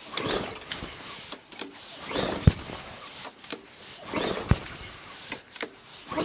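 Recoil pull-starter of a Briggs & Stratton 450E lawnmower engine being pulled about three times, roughly every two seconds. Each pull cranks the engine with a brief rising-and-falling whirr that ends in a sharp knock. The engine does not catch.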